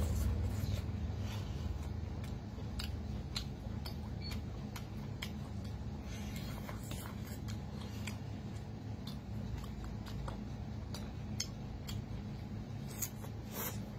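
Close-up chewing of spiced seafood: irregular wet mouth clicks and smacks, scattered a few per second, over a steady low hum.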